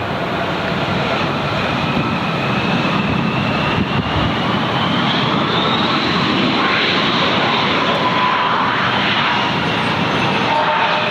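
Airliner engines running loud and steady, with a high whine that climbs over the first half and a lower whine that slowly falls in the second half.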